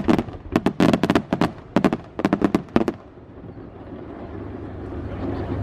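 Aerial fireworks going off in a rapid volley of sharp bangs and crackles, several a second, which stops about three seconds in. Afterwards a low, steady background sound slowly grows louder.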